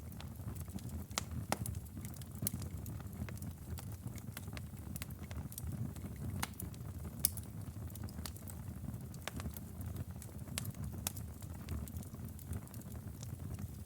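Outdoor fire crackling: irregular sharp pops and snaps over a low, steady rumble of the flames, with one louder pop about seven seconds in.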